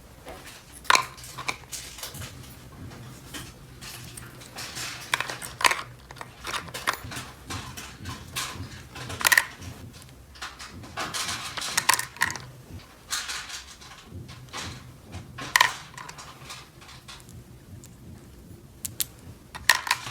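Small plastic toy pieces being handled: sharp clicks and clacks every few seconds as pieces are set down or snapped together, with scraping and rustling between.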